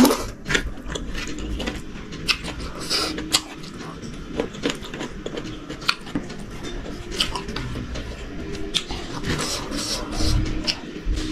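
Close-mic chewing of a mouthful of rice eaten by hand, with many short wet mouth clicks and smacks.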